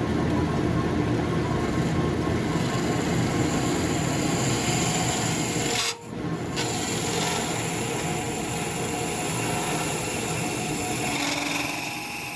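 Wood lathe running as a turning tool scrapes the spinning segmented wooden bowl, a steady rasping over the motor hum, briefly cut off about halfway through.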